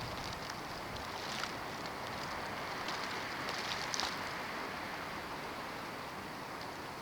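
Snowstorm wind blowing steadily, with a short louder swell about four seconds in.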